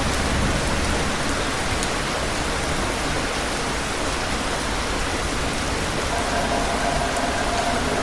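Steady heavy rain falling, an even dense hiss. A faint steady tone comes in about six seconds in.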